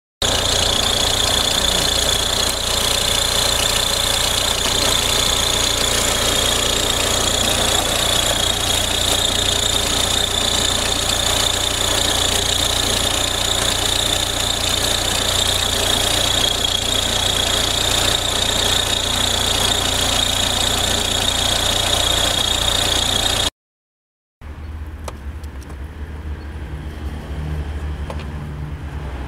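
Audi A4 B6 1.9 TDI four-cylinder turbodiesel engine running steadily, with a steady high-pitched whine over the diesel clatter. The mechanic takes the noise most likely for the belt tensioner. The sound cuts off about 23 seconds in and gives way to a quieter, lower hum.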